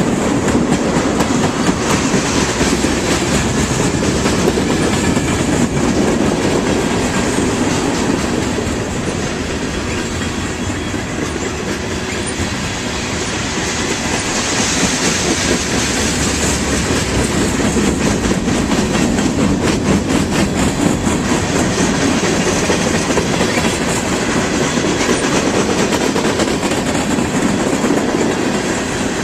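Train cars rolling past on the rails: a steady rumble with a dense clatter of wheel clicks.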